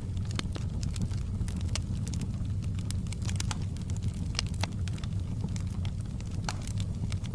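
Wood fire burning in a fireplace: a steady low rumble with frequent, irregular sharp crackles and pops from the burning logs.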